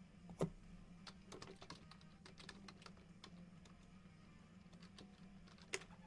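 Faint, scattered clicks and ticks of trading cards and plastic card holders being handled, with two louder clicks, one about half a second in and one near the end.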